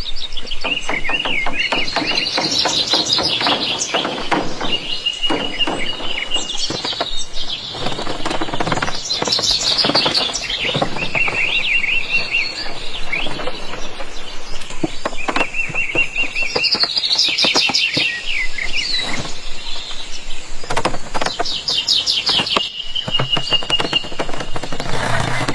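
Birdsong: several birds chirping and trilling in repeated high phrases, some notes held briefly before breaking into rapid trills.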